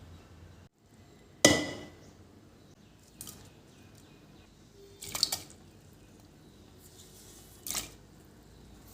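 Household objects being handled and set down: a sharp knock with a brief ring about a second and a half in, a quick clatter of clicks near the middle, and another knock near the end.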